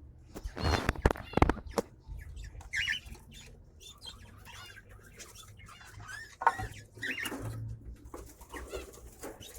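Small pet parrots (budgerigars, lovebirds and cockatiels) chirping, with short bursts of wing flapping, the loudest about half a second to a second and a half in and again around six and a half seconds in.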